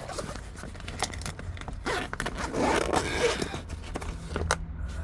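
Zipper of a bag being pulled open and the bag's contents handled, with scrapes and short clicks.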